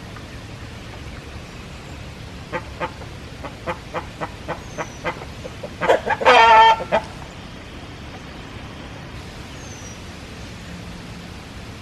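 Backyard chickens clucking: a run of short clucks, then one loud pitched call about a second long just past the middle, over a steady low background hiss.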